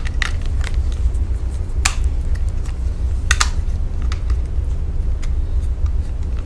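Scattered sharp clicks of plastic parts being handled and pushed together while a keg's tap is being fitted, over a steady low rumble.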